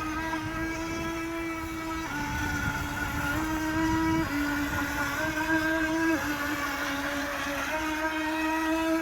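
Toy RC electric speed boat's twin electric motors running with a steady whine that steps between a higher and a lower pitch several times as the throttle changes.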